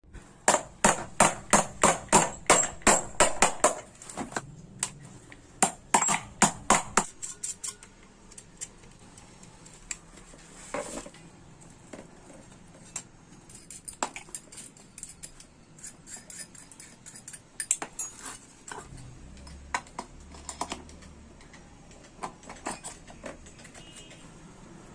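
Sharp metallic knocks and clicks: a fast run of about four a second for the first four seconds, another short run a couple of seconds later, then scattered single knocks.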